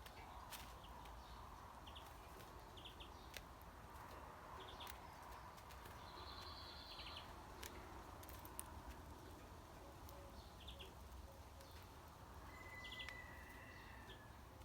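Faint songbird calls: short paired chirps every second or two, a longer high whistle about halfway through, and a steady whistled note near the end, over a quiet outdoor background with a few faint clicks.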